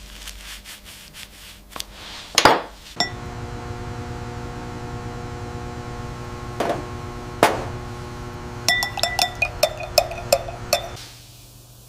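Metal silverware being handled: a few knocks, then a quick run of ringing clinks, over a steady hum that starts about three seconds in and stops near the end.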